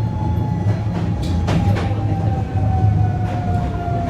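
Hankyu 1300 series electric train running, heard from inside the car: a steady low rumble from the wheels on the rails with scattered clicks over rail joints, and a thin whine slowly falling in pitch.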